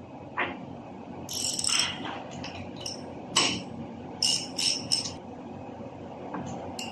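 Short metallic clinks and jingling rattles, several in quick succession, over a steady low hum.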